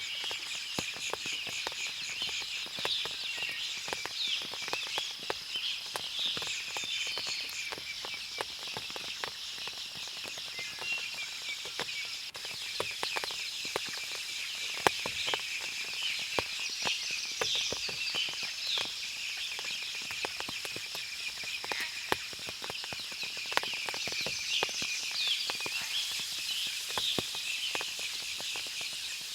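Forest ambience after rain: a steady high-pitched insect chorus with birds chirping in bursts. Frequent sharp ticks of water dripping from the leaves.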